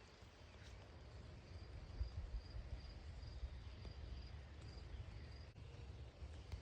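Quiet outdoor ambience: a low, uneven rumble, with a faint high chirp repeating evenly about two and a half times a second from about a second and a half in until about five seconds in.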